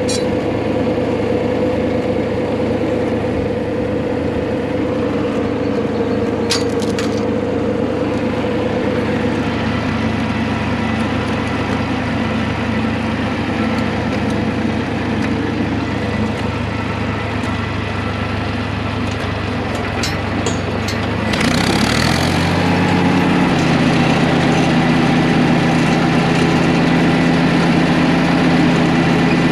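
Tractor engine running steadily, then throttled up to a higher speed about two-thirds of the way through and held there.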